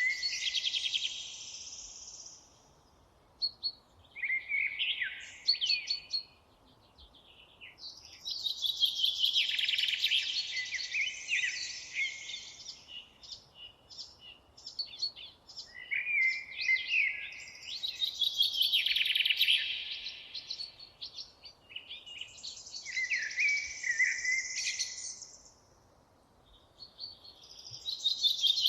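Songbirds singing in rapid, complex phrases a few seconds long, about six of them, separated by short pauses, over a faint steady background hiss.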